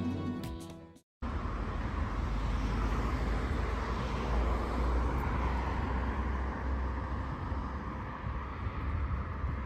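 Background guitar music fades out in the first second. After a sudden cut comes a steady low rumble with hiss, the running noise of a vehicle or traffic.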